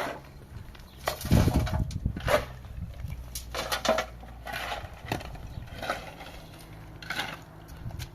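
Irregular knocks and clattering, a dozen or so scattered hits with the heaviest a little over a second in, over a low steady hum.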